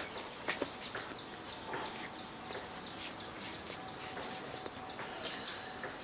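Outdoor ambience with small birds chirping over and over in short, high notes.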